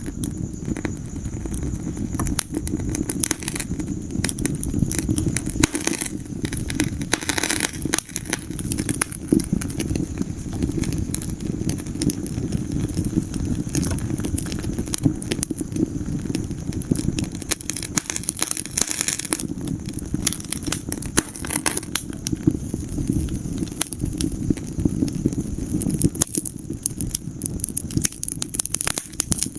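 Fire burning in a fireplace, crackling: a steady low rumble of flames under frequent sharp pops and snaps, with a few louder clusters of pops.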